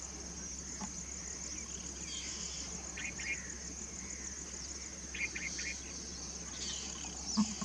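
Short bursts of high chirping from a small bird, about three and five seconds in, over a steady high trill of insects. A brief soft knock comes near the end.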